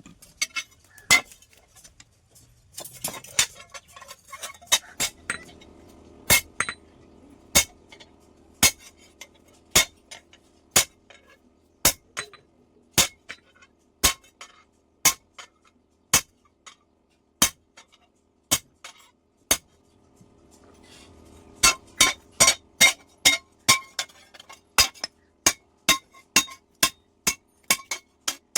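Hammer blows ringing on steel plate as it is forged into a hoe: sharp metallic clinks, about one a second, quickening to two or three a second over the last several seconds. A faint steady hum runs underneath.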